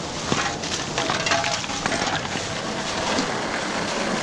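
Crinkly rustling and small clattering of rubbish being rummaged through by hand, with many little clicks and crackles.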